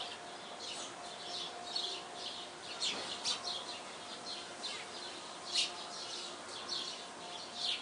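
Small songbirds chirping in short, high notes, about one or two a second, over a faint steady hum.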